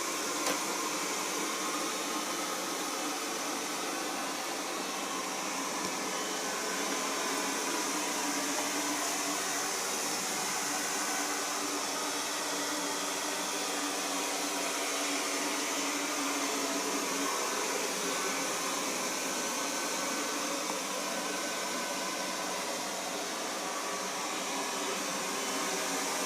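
LIECTROUX B6009 robot vacuum cleaner running with its brushless suction motor, a steady hiss with faint whining tones and little bass, quieter than a Blitzwolf robot vacuum.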